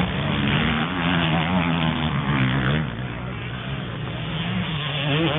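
Motocross motorcycle engines racing past, revving up and down with the pitch rising and falling; the sound drops somewhat about three seconds in.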